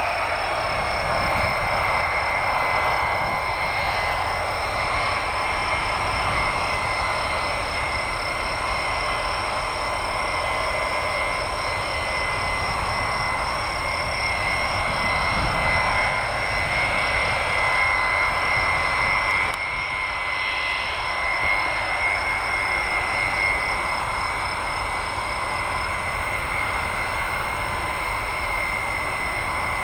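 E-8 aircraft's jet engines running at low power, a steady high whine over a constant rush of noise. The whine's pitch holds level throughout.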